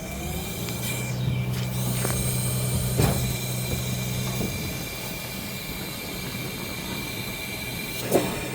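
An engine running at a steady speed, picking up just after the start and easing off about halfway through, with a sharp knock at about three seconds and another near the end.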